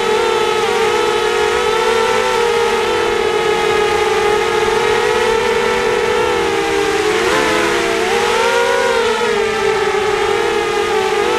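Spanky 250 quadcopter's four SunnySky 2204 2300Kv brushless motors spinning 5040 props, a steady multi-tone whine heard from the onboard camera. The pitch dips and rises for a few seconds past the middle as the throttle changes, then settles.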